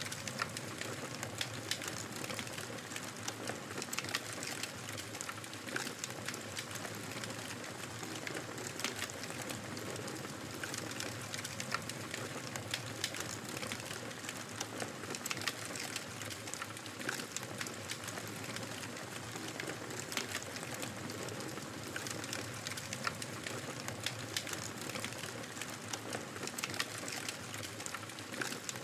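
Fire crackling in a fireplace: frequent irregular sharp pops and snaps over a steady soft hiss and rumble.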